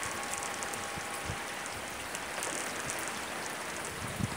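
Steady rain falling on trees and a roof, an even hiss. Faint wind-chime tones ring out and fade during the first couple of seconds.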